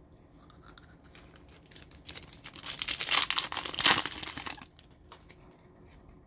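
A foil trading-card pack being torn open and crinkled, a burst of crackling that peaks and then stops, with light card-handling clicks either side.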